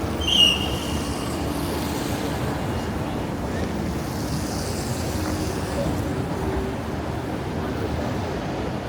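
Steady rumble of city street traffic, with a short high squeal about half a second in.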